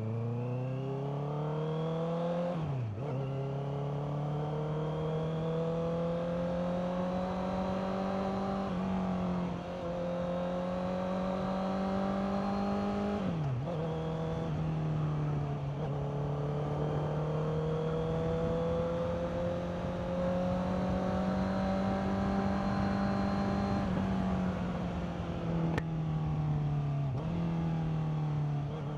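Honda CBR650R's inline-four engine under way, its pitch climbing with the revs and then dropping sharply at each gear change, about six times over the ride, with one short click near the end.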